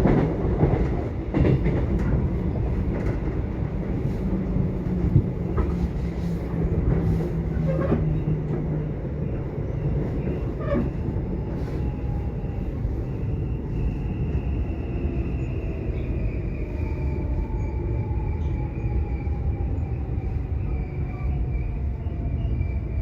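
Subway train running: a steady rumble with scattered clicks of the wheels over the rails. About halfway through, a high whine comes in and slowly falls in pitch.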